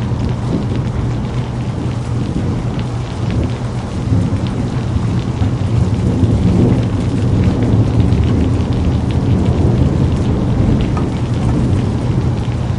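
Steady rain falling with a deep rolling rumble of thunder that builds up through the middle and then eases.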